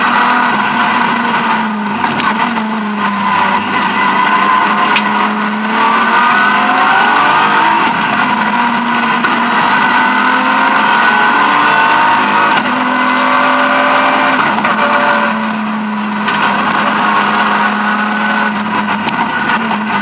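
BMW E36 M3 rally car's straight-six engine at full effort, heard from inside the stripped cockpit, its revs rising and falling again and again as the car drives the stage.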